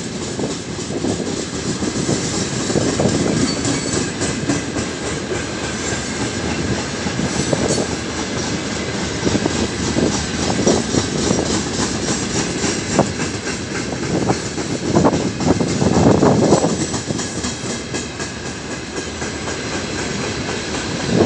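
Loaded freight wagons (tank cars and open gondolas) rolling past at low speed: a steady wheel-on-rail rumble with louder clickety-clack swells about every two seconds as the wheelsets cross rail joints.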